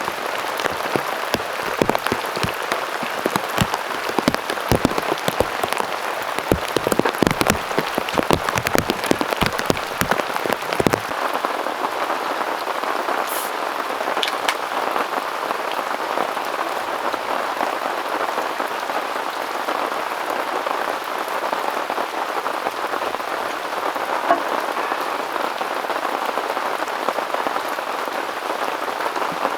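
Heavy autumn rain. For the first ten seconds or so, dense close drops strike a surface in a fast irregular patter. After that the sound settles into an even hiss of rainfall.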